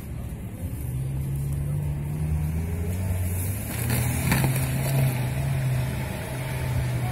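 Off-road SUV engine running under load, its pitch stepping up about a second in and the engine working harder about four seconds in, with a brief rushing noise around the same moment.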